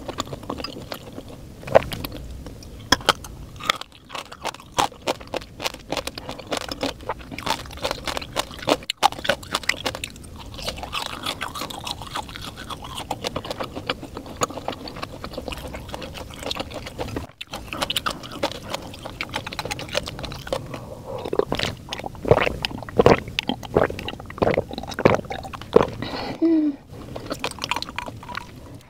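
A person chewing food close to a clip-on microphone: many wet mouth clicks and small crunches, busier near the end.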